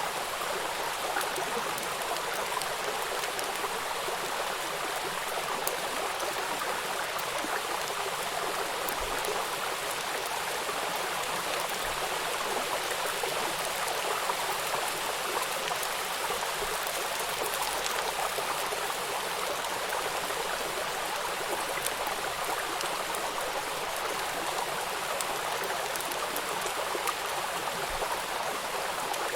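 River water rushing over rocks, a steady, even rush of flowing water.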